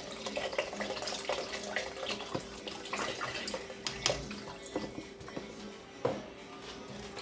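Broth being poured into a pan of cooked vegetables: a steady splashing pour with scattered small clicks, over a faint steady hum.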